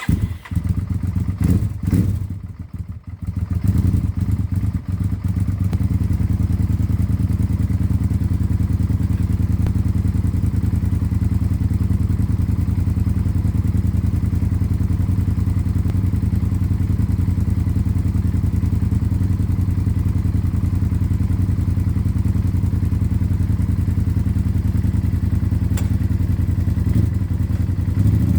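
Honda Varadero XL1000V's 1000 cc V-twin engine, uneven for the first few seconds as it catches, then idling steadily with an even, unchanging beat.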